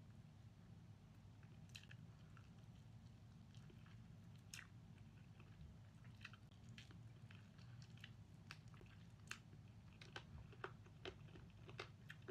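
Faint chewing and biting on crispy fried chicken, with scattered soft mouth clicks and crunches that come more often in the second half, over a low steady hum.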